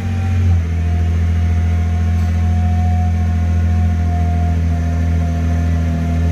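Nissan GT-R R35's twin-turbo V6 idling just after a cold start, its revs dropping a step about half a second in and then holding steady.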